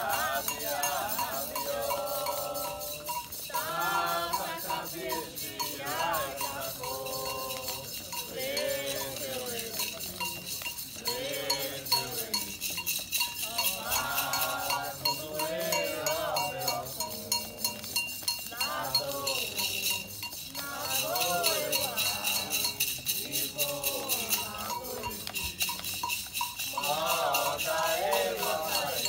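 Voices singing a Candomblé chant over fast, steady metal percussion of bell and rattle.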